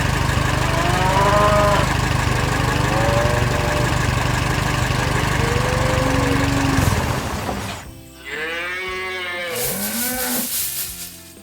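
Cows mooing several times in long arching calls, over a steady low rumble that stops about seven seconds in. A second burst of mooing comes near the end.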